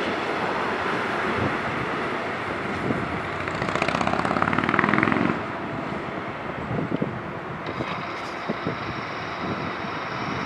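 DB Intercity train rolling over curved track and points, a steady rumble of wheels on rail. Around the middle there is a louder stretch of rapid clatter, and a faint high steady tone starts about three-quarters of the way through.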